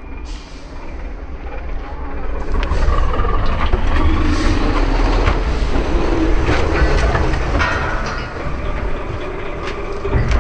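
Heavy truck-trial truck's diesel engine running under load, with repeated knocks and rattling. It gets louder about two and a half seconds in.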